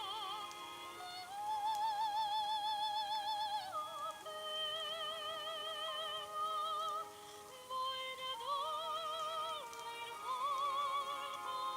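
Recording of a 13-year-old girl singing in an operatic style, played back: long held high notes with a wide, even vibrato, moving to a new pitch every couple of seconds.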